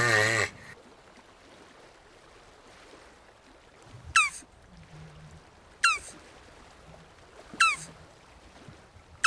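Jabuti (South American tortoise) calling: four short, sharply falling cries, evenly spaced about 1.7 seconds apart, with faint low hums between them.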